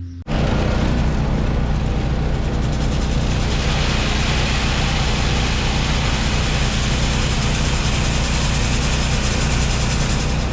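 A large vehicle engine running steadily, with a low, even drone under a loud rushing noise that grows a little stronger about three and a half seconds in.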